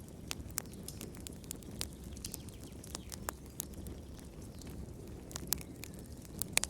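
Wood fire crackling in a fireplace: irregular sharp pops and snaps over a low steady rumble of the flames, with a couple of louder pops near the end.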